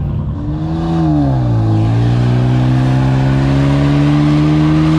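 Car engine running at raised revs: its note drops in pitch about a second in, then holds steady.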